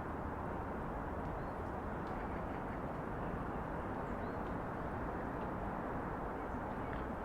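Steady city ambience: a constant hum of distant traffic, with a few faint short high chirps scattered through it.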